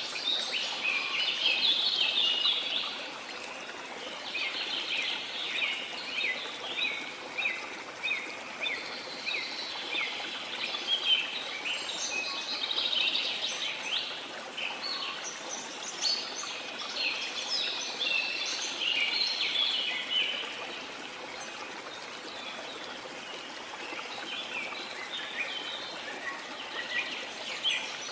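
Several birds singing in a dense chorus of quick, high chirps and trills that come and go in bouts, over the steady rush of a waterfall.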